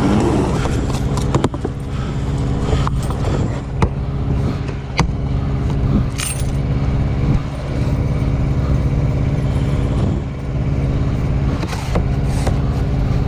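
A key scraping and tearing at the plastic wrapping of a new air filter, with scattered clicks and crinkles, over the steady drone of an idling engine.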